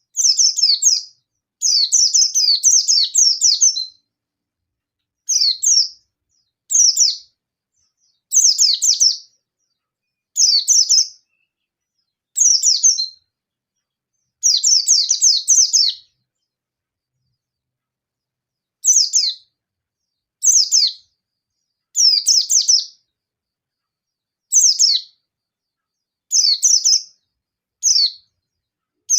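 A yellow-breasted white-eye (pleci dada kuning) singing in short bursts of very fast, high twittering, each about half a second to a second and a half long, with pauses between and one longer pause about midway. This is the fierce rapid 'nembak' song a white-eye uses to call out a rival.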